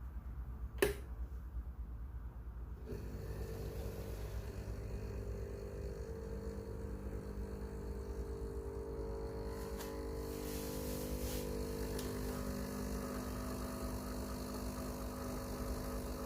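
A sharp click, then from about three seconds in the Breville Barista Pro's vibratory pump humming steadily as it pushes water through the coffee puck, pulling an espresso shot.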